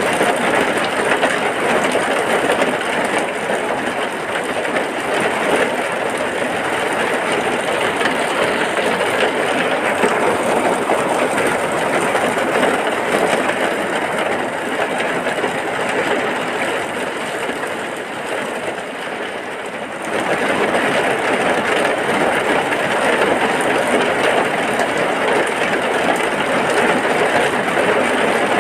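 Heavy rain falling as a loud, steady hiss; it eases slightly and then comes back up abruptly about twenty seconds in.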